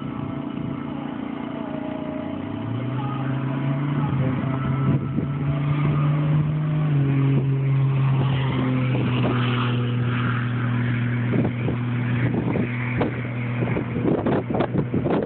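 Turbocharged Buick Grand National 3.8-litre V6 accelerating hard down a drag strip. The engine tone climbs and grows louder, steps down in pitch about seven seconds in, then holds steady.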